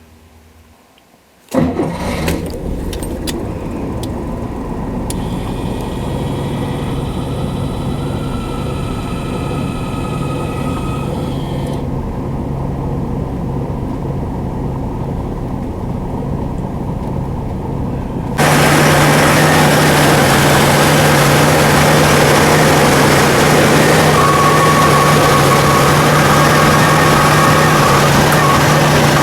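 Bentley Turbo R's 6.75-litre turbocharged V8 starting about a second and a half in, then idling steadily. About two-thirds of the way through, the sound suddenly gets louder and brighter while the idle holds at the same pitch.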